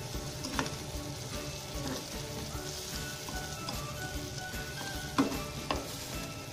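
Eggplant slices shallow-frying in oil in a pan, giving a steady sizzle. A metal spatula scrapes and taps against the pan a few times, loudest just after five seconds in.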